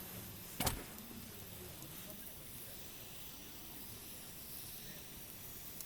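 Campfire burning with a faint steady hiss, and one sharp pop from the burning wood about half a second in.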